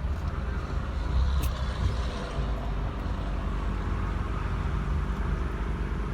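Steady low rumble of a car's engine and road noise, heard from inside the car's cabin, with a faint short tick about a second and a half in.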